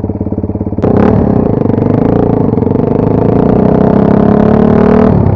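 Two-stroke enduro motorcycle engine running at low revs. About a second in, the throttle opens and the engine pulls under load, its pitch rising slowly. It eases off near the end.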